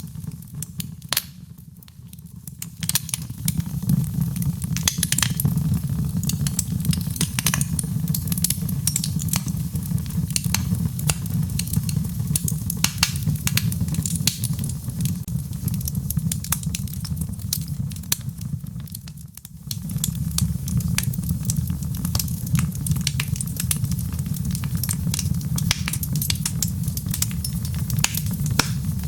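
Fireplace fire crackling and popping with dense irregular snaps over a steady low rumble. It briefly drops quieter about two seconds in and again around two-thirds of the way through.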